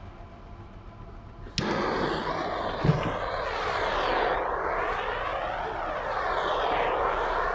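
An electric air blower switches on with a click about one and a half seconds in, then runs with a steady rushing of air whose tone slowly sways and shifts, as if the blower is moved about.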